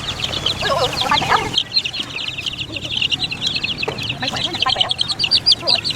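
Many chickens calling at once: a dense stream of rapid, high-pitched cheeping, with a few louder, lower squawks about a second in and again near the end.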